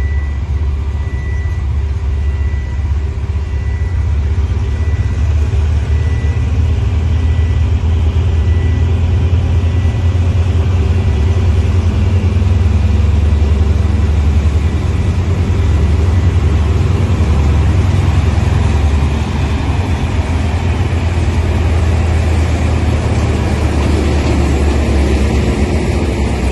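Diesel-electric locomotive engine running with a heavy, steady low rumble that grows somewhat louder midway.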